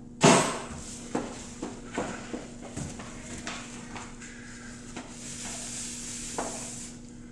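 Hand tool rubbing and scraping polyurethane spray foam overspray off a vehicle's plastic headlight lens, in short irregular strokes about every half second, with a longer hiss near the end. A sharp, loud sound comes just after the start.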